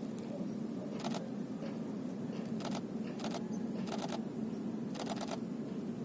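Canon 90D DSLR shutter firing in short continuous-shooting bursts, about five quick rattles of clicks spread across a few seconds, over a steady low background rumble.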